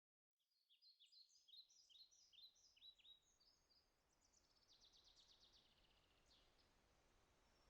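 Faint songbird calls in a forest: a busy run of short, high, down-sweeping chirps, then a fast trill of ticks from about halfway in, over a faint steady hiss.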